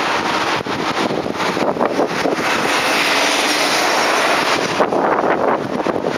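A train passing by: a steady rushing noise of wheels on rail that swells in the middle, with wind noise on the microphone.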